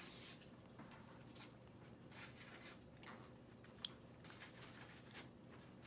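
Near silence: room tone with faint scattered rustles and soft clicks, and one brief sharp click about four seconds in.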